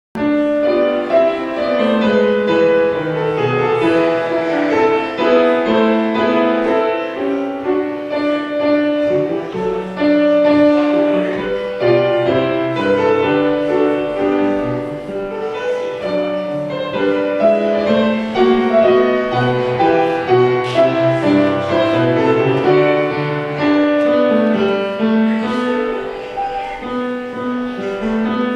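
Piano playing a continuous piece of music, chords and moving lines.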